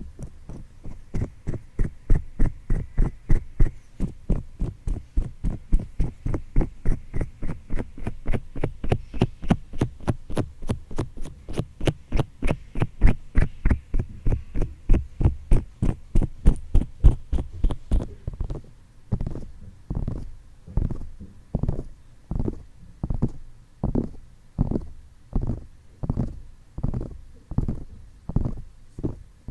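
Fingertips tapping on a microphone's ears, giving a steady run of dull, low thumps. The taps come fast, about four a second, then slow to about two a second from about two-thirds of the way through.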